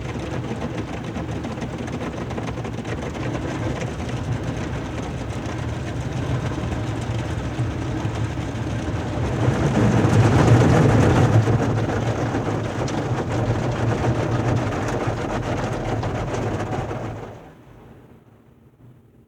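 Automatic car wash machinery running, a steady low hum with a rushing noise over it. It grows louder about ten seconds in, then falls away sharply a couple of seconds before the end.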